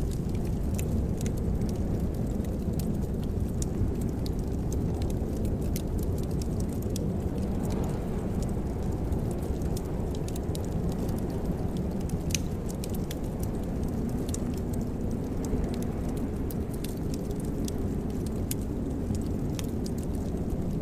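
Wood fire crackling in a fireplace: frequent small sharp pops and snaps over a steady low rumble of burning.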